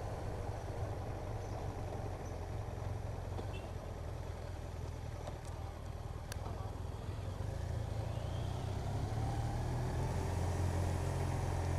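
Motorcycle engine and road noise while riding: a steady low drone that grows louder over the last few seconds.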